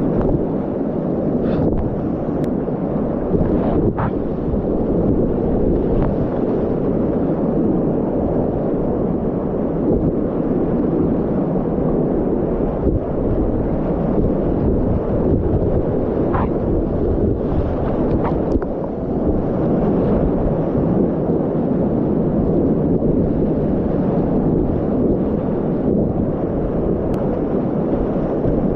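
Whitewater rapids rushing loud and steady, with a few faint clicks scattered through.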